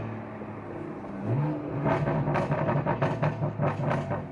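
Tuned BMW F30 sedan's engine accelerating, heard inside the cabin; its pitch starts to rise about a second in.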